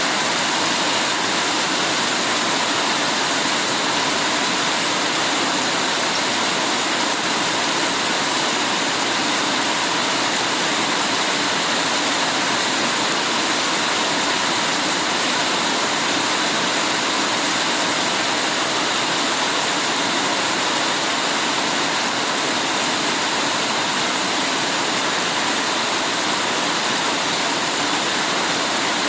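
Steady heavy rain, a dense even hiss of falling water with no breaks.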